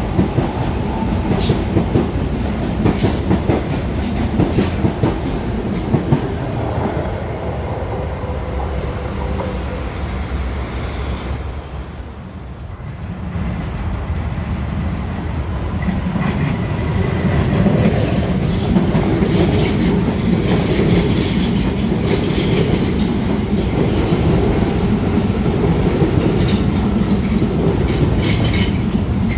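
Electric commuter trains running on the rails, wheels clacking over rail joints with a click every second or so at first. The rumble fades to its quietest about halfway through, then another train comes in and grows louder, with more rapid clacking.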